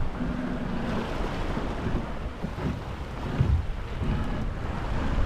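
Wind buffeting the microphone aboard a sailboat under way, with waves and water noise around the hull, rising and falling in gusts.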